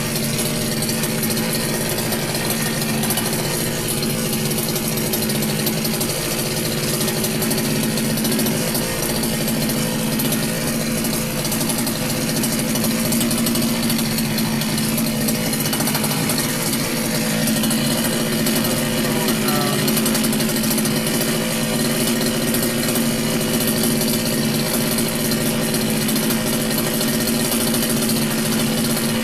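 Petrol strimmer engine running steadily, warming up just after a cold start.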